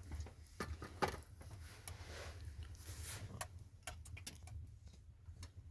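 Scattered light clicks and taps at an uneven pace, the sharpest about a second in, over a steady low hum.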